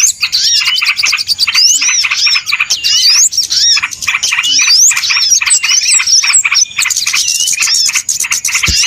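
Many small birds chirping and twittering at once, a dense, unbroken chorus of quick high-pitched notes that sweep up and down and overlap; a noisy bird-luring (pikat) call recording.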